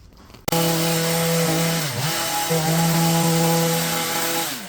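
Small petrol two-stroke engine of a garden cutting tool starting abruptly and running at high, steady revs. It bogs down briefly under load about two seconds in and again near the end as it cuts through the pyracantha.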